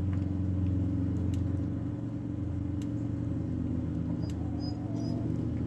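Electric fence energiser pulsing on the gate: three sharp clicks about a second and a half apart, over a steady low mechanical hum.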